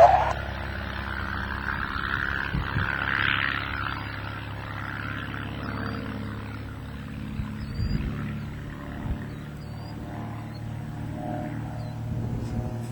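Propeller engine of a Van's RV-8 light airplane droning on a flyby, loudest about three seconds in and then easing off.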